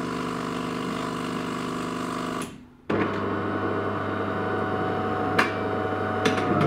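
De'Longhi ECAM bean-to-cup coffee machine running its rinse cycle. A steady motor hum lasts about two and a half seconds and stops briefly, then a second, deeper and louder steady hum runs and winds down with a falling pitch at the very end.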